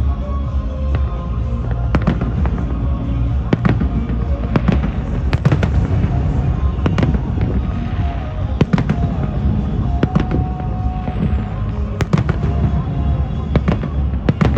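Fireworks display: aerial shells bursting in a long string of sharp bangs at irregular intervals, over music with held notes.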